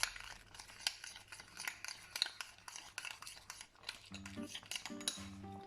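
A utensil stirring egg yolk and spice in a bowl, clicking and scraping against it in quick irregular taps. Background guitar music comes in about four seconds in.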